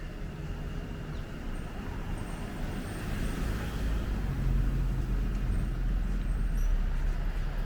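A motor vehicle's engine running close by, a low rumble that grows louder about halfway through.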